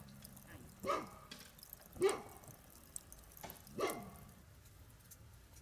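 A dog barking three times: two barks about a second apart, then a third after a longer pause.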